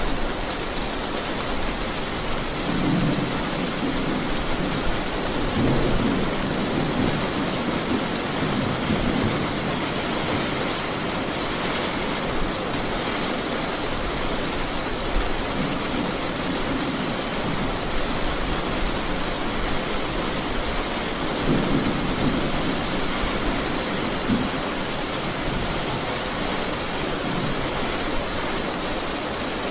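Steady heavy rain hissing, with low rolls of distant thunder rumbling from about 3 to 10 seconds in and again around 21 to 23 seconds in.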